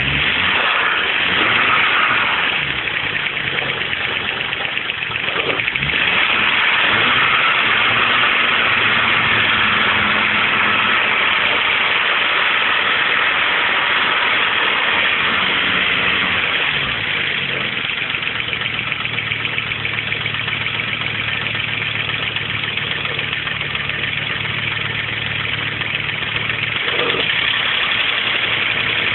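Audi 200 20V's 3B turbocharged five-cylinder engine running, its speed rising and falling a few times and settling lower in the second half. A strong hiss runs over the engine throughout.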